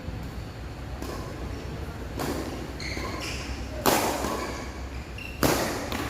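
Badminton rackets striking a shuttlecock during a doubles rally: three sharp smacks about a second and a half apart, ringing in a large hall. Short high squeaks sit between the hits.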